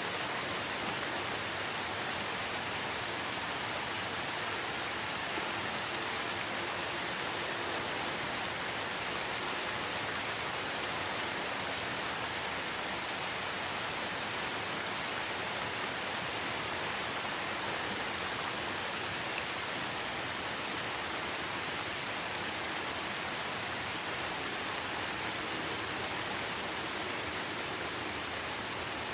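Steady, even rain hiss with a few faint drop ticks.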